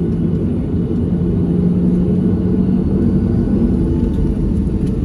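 Steady low cabin rumble and hum of a Boeing 737-700's CFM56 engines running on the ground before takeoff, heard inside the cabin.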